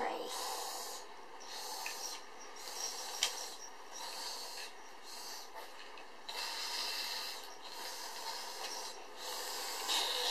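Uneven rustling, rubbing noise that comes and goes in patches, with a single sharp click about three seconds in.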